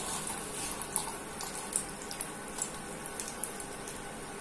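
Potato cutlet frying gently on a hot tawa: a steady sizzle with scattered small crackles.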